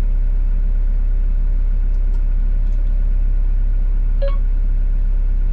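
Excavator diesel engine idling steadily, a constant low hum heard from inside the cab. A brief short sound comes about four seconds in.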